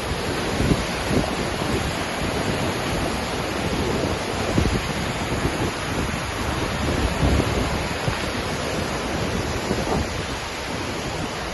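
Waterfall pouring: a loud, steady rush of falling water with an uneven low rumble beneath it.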